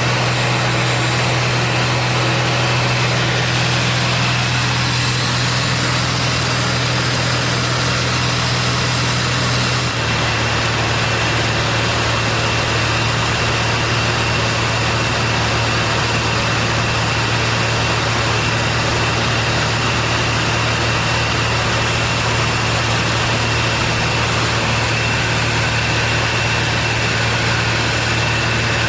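Piston engine of a Zlin Z-226MS light aircraft running steadily in flight, a constant drone whose note shifts slightly about a third of the way in.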